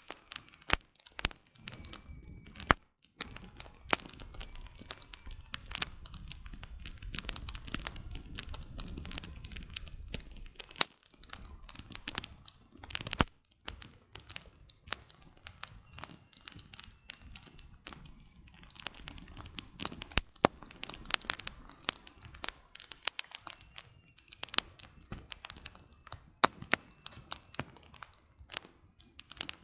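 Campfire of burning firewood crackling, with dense, irregular snapping pops throughout. A low rumble sits under the crackle for several seconds in the first half.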